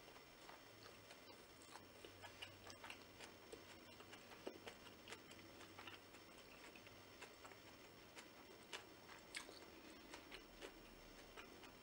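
Faint, quiet chewing of a fresh rice-paper spring roll with lettuce: soft, wet mouth clicks come at irregular moments, with a few sharper ones in the second half.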